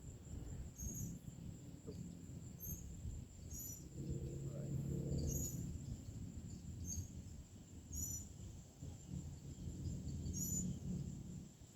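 Insects chirping outdoors: a steady high trill with a short repeated chirp about once a second, over a low rumble and a faint hum that swells near the middle.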